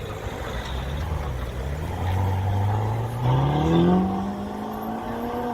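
A car engine accelerating, its pitch rising steadily from about two seconds in and levelling off near the end.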